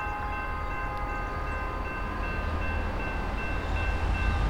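Diesel freight locomotive air horn sounding one long held chord, its tones steady and fading out about three and a half seconds in. Under it the low rumble of the approaching train grows louder.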